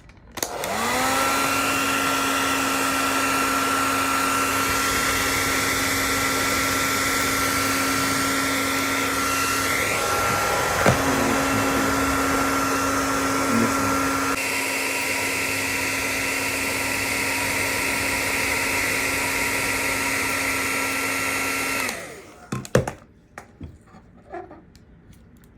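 Handheld hot-air blower running steadily to heat and soften the adhesive holding a GoPro screen. Its motor spins up just after the start, runs with a steady hum and whine, and switches off about 22 seconds in. A few light clicks follow.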